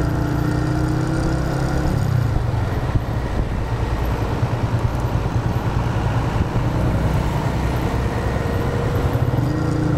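Yamaha FZ150i's single-cylinder four-stroke engine running on the move. Its steady engine note is clear for about two seconds and again near the end, and in between it is mostly buried under a fluctuating rush of riding noise.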